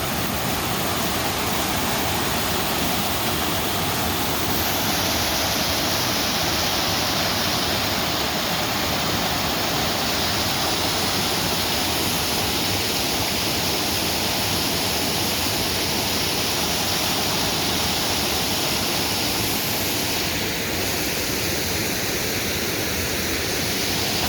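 Small waterfall on a river rushing steadily, a continuous even roar of falling water. A brighter, higher hiss joins about five seconds in and drops away about twenty seconds in.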